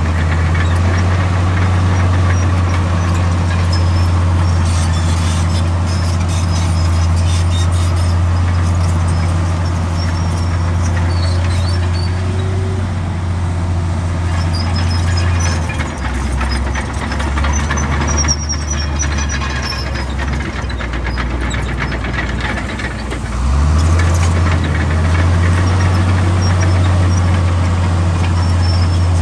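Diesel engine of a Komatsu D65 crawler bulldozer working steadily under load, with faint high squeaks from the tracks. About halfway through the engine note drops lower for several seconds, then comes back up to full working pitch.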